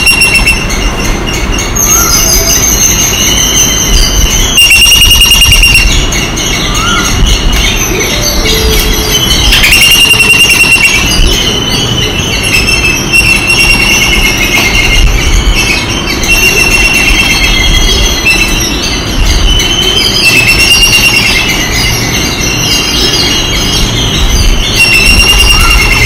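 A group of babblers calling in a continuous chorus of overlapping high, squeaky squeals, each drawn out up to about a second.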